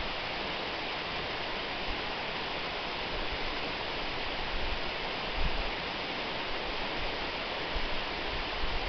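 Waterfall: a steady rush of falling water. A few brief low rumbles rise over it, most clearly about five seconds in and near the end.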